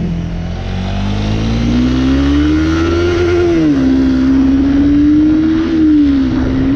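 Motorcycle engine accelerating, its pitch rising for about three seconds, then dropping suddenly at an upshift and holding fairly steady as the bike cruises on.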